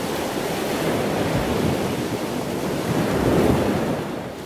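Steady rushing water ambience, swelling about three seconds in and easing off near the end.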